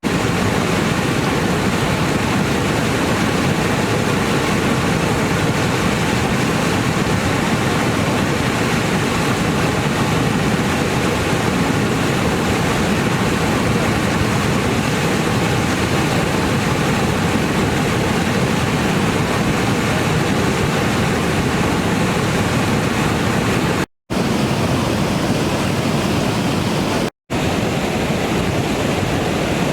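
Swollen river in flood, rushing water making a loud, even noise. Two brief silent dropouts come about 24 and 27 seconds in.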